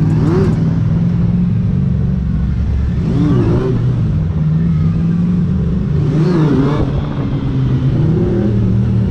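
Motorcycle engine running steadily while riding, heard from on board.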